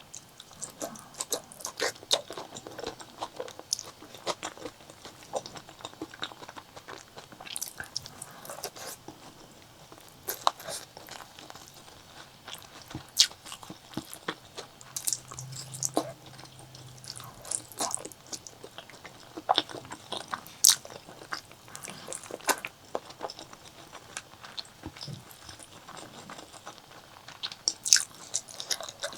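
Close-miked eating of pork leg curry with rice: steady chewing and biting, full of sharp wet clicks and crunchy bites. A short low hum comes about halfway through.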